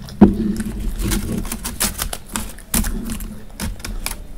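Close-miked chewing of a mouthful of roti and curry, with wet mouth clicks and lip smacks coming irregularly, the loudest just after the start and a little before the three-second mark.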